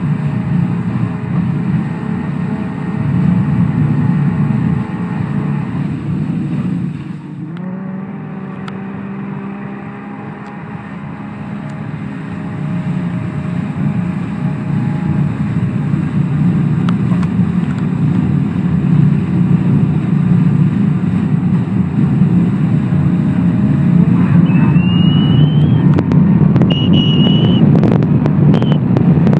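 Kawasaki STX-1100 jet ski's two-stroke three-cylinder engine running hard. The revs drop for a moment about seven seconds in, then rise again, and the engine holds high revs, getting louder toward the end. Near the end a high whistle rises briefly, with buffeting.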